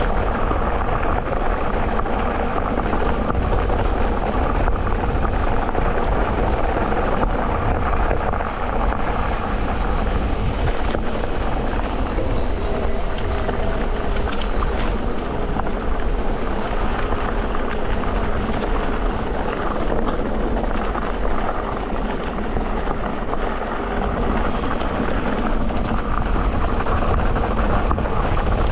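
Electric mountain bike riding a dirt trail: steady tyre rolling noise and rattle of the bike, with a few sharp clicks.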